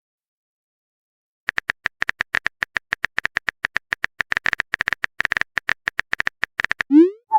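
Phone keyboard typing sound effect: a fast, irregular run of short clicks that starts about a second and a half in, followed near the end by a short rising tone, like a message being sent.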